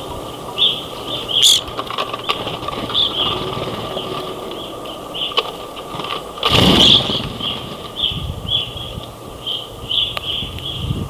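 Grosbeaks at a feeder giving short chirping calls over and over, over a steady thin tone. A brief loud burst of noise about six and a half seconds in.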